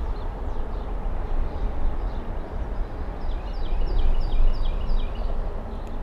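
A songbird sings a short run of about six quick, downslurred whistled notes, about three a second, a little past halfway, over a steady low outdoor rumble.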